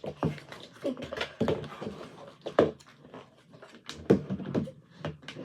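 Slime being stirred and kneaded with activator: irregular soft wet squishes and small clicks, a few of them sharper than the rest.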